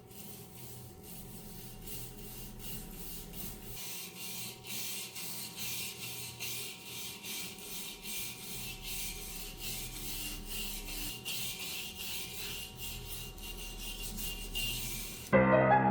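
Abrasive rubbing in quick, repeated strokes over a faint steady hum, typical of hand-sanding or scrubbing a motorcycle part during restoration. Piano-like music comes in just before the end.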